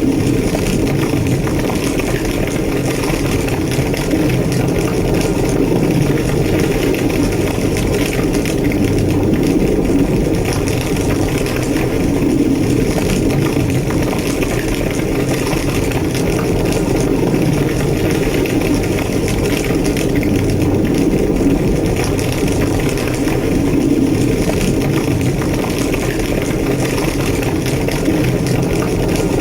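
Large structure fire burning, with a steady low roar and dense crackling throughout.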